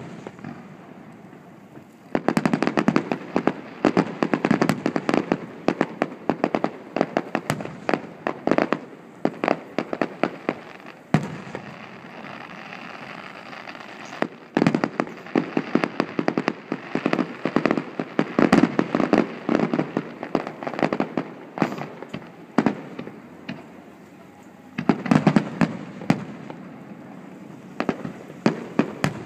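Fireworks display: volleys of many rapid bangs and crackling shell bursts, packed close together, coming in three long barrages with thinner, scattered bangs in the lulls between.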